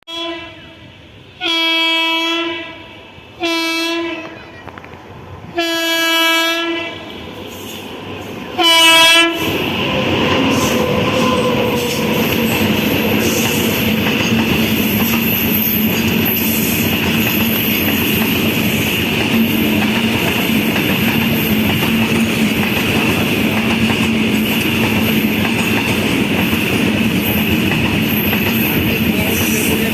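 Indian Railways WAG-9 electric locomotive sounding its horn in four blasts, the third the longest and the last the loudest. About nine seconds in, the locomotive and its train run past at speed with a steady loud rumble and wheels clattering over the rails.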